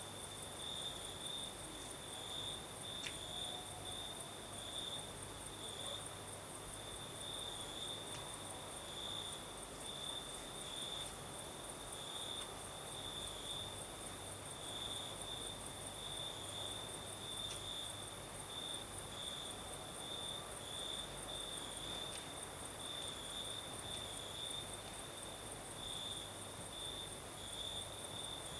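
Crickets chirping in a steady, even pulse of high-pitched notes, over a continuous high hiss.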